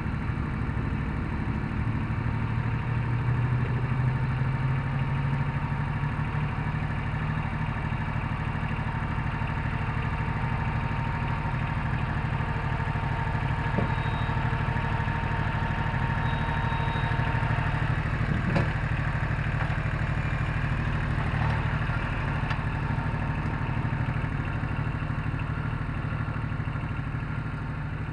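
Satoh Mitsubishi compact tractor engine running steadily, with a few short clanks about halfway through.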